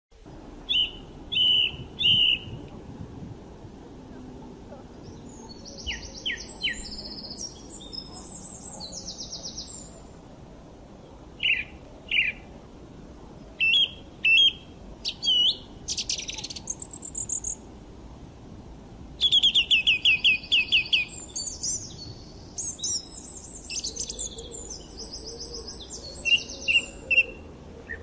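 Birds chirping, with short high-pitched calls and quick trills in scattered bouts. Over a faint steady background noise, a fast run of repeated notes about two-thirds of the way in is the loudest.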